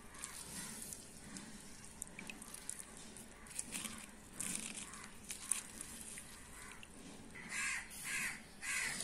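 A bird calling four or five times in quick succession near the end. Before the calls there are faint small ticks as lemon juice is squeezed by hand into a cup of tea.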